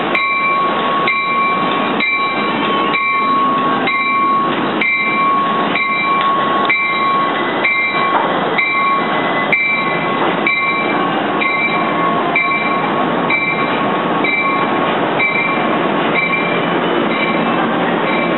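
Commuter train running past a station platform: steady rumble of the cars on the rails with a continuous high whine. A regular beat of about two pulses a second runs through it without changing pace.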